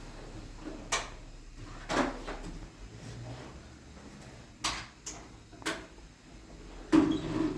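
Scattered knocks and clunks of household objects being handled, about six over a few seconds, the loudest near the end, over a low steady hum.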